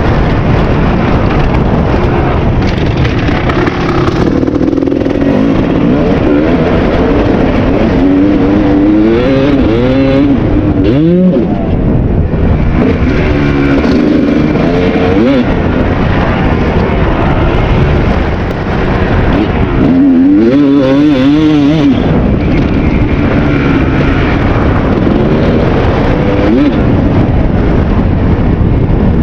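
2001 Kawasaki KX250 two-stroke single-cylinder engine being ridden hard through an aftermarket or stock silencer, its pitch repeatedly climbing as it revs out and dropping at each shift or throttle-off. Loud throughout.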